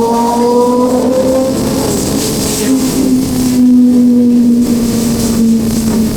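Sportbike engine running steadily under way, its note rising slightly over the first second and a half, with constant wind rush.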